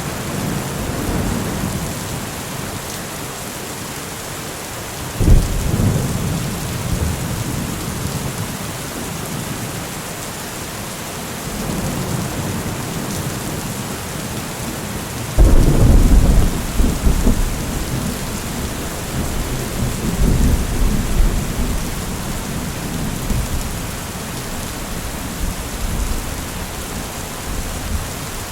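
Steady heavy rain with thunder. A sudden thunderclap comes about five seconds in, and a louder one at about fifteen seconds, followed by rolling rumbles that die away.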